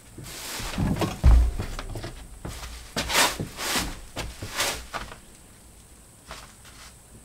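Insulation being handled and stuffed into a wall cavity: a run of rustling and scraping with a low thump about a second in, dying down to a few light knocks after about five seconds.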